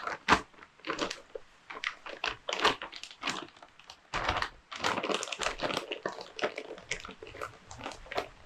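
Plastic bag crinkling and rustling in irregular bursts as a carburettor is packed into it.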